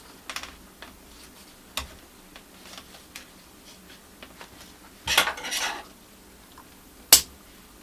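Small clicks and clatter from handling plastic cable ties and wiring on a 3D printer's frame, with a short rasp about five seconds in and one sharp snap about seven seconds in.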